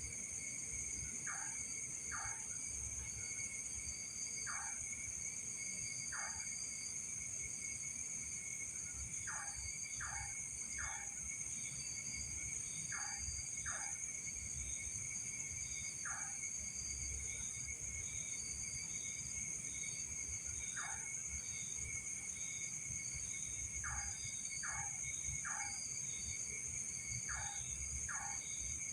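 Night insect chorus: several steady high-pitched trills from crickets or other insects. Over it come short calls, singly or in quick groups of two or three, every few seconds, with a low rumble underneath.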